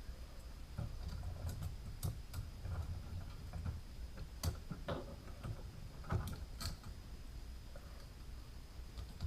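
Lego pieces being handled: irregular light clicks and taps, a few sharper ones about four and a half and six seconds in, over a low handling rumble.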